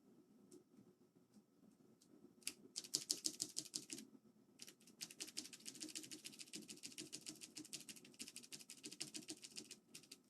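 Cherry MX Blue mechanical keyboard switches clicking as a key is pressed rapidly over and over: a few scattered clicks, then a fast burst, a short pause, and a long run of rapid clicking. The key is being spammed to work cleaning mixture into a switch made sticky by a spilled drink.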